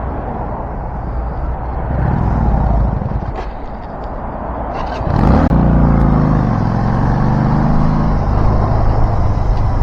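Vehicle engine and road noise while under way. About five seconds in, a louder engine note comes in suddenly and holds, as under acceleration.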